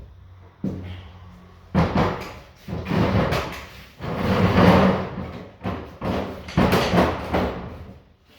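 A wooden sewing-machine table being shoved and dragged across the floor: a run of rough scraping pushes and knocks, the loudest about halfway through.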